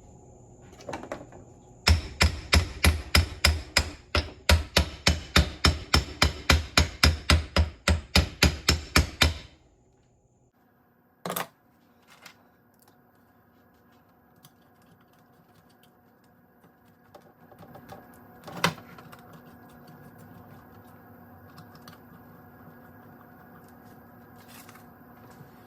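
A hammer striking a metal part of a steering box in a quick, even run of about twenty blows, about three a second, which stops suddenly; two single knocks follow later.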